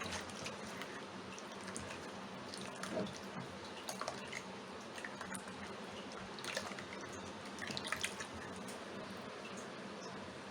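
A wet mixture being stirred in a bowl: soft squishing with scattered light clicks of the utensil, a few busier stretches in the middle.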